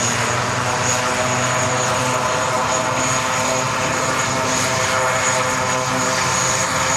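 Aircraft engines running steadily on the ground: a steady high whine over a pitched, droning hum.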